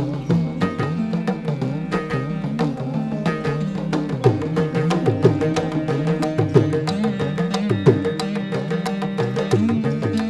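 Indian classical dance music: fast, steady drumming on Indian hand drums, the bass strokes bending in pitch, over a sustained drone.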